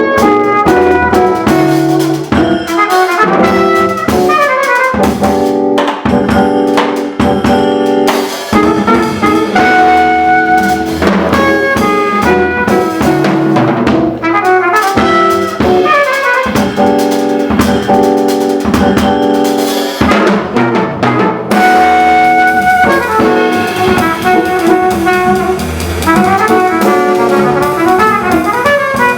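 Up-tempo jazz: trumpet, guitar and upright bass playing fast runs, with a drum kit and ride cymbal played along.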